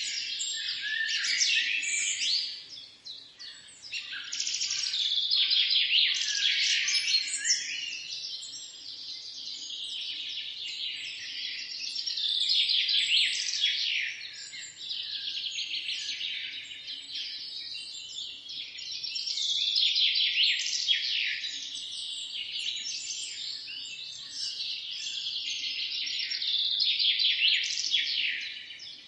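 Many small birds chirping and singing at once in a dense, overlapping chorus of quick high chirps and trills, swelling louder about every seven seconds.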